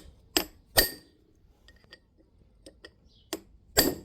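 Hammer blows on a steel chisel used as a drift, driving a wheel bearing into its hub: five sharp metallic strikes that ring, three in the first second and two more near the end.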